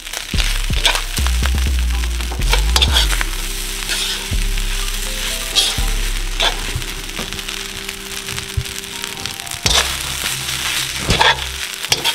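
Fried rice sizzling in a hot wok as it is stirred and turned with a metal spoon. Short clicks and scrapes come from the spoon against the pan.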